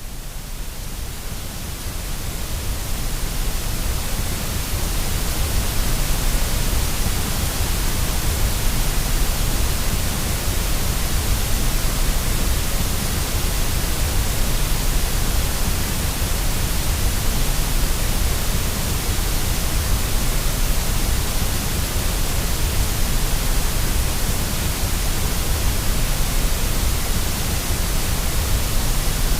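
Steady white noise for baby sleep, a full, even hiss with a heavy low rumble, swelling up over the first few seconds and then holding level.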